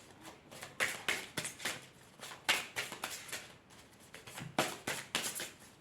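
A deck of oracle cards being shuffled and handled by hand: an irregular run of short soft slaps and rustles.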